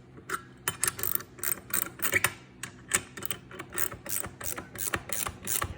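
5/8-inch wrench working a fitting on an oxygen-concentrator compressor: a run of short, sharp metallic clicks, several a second.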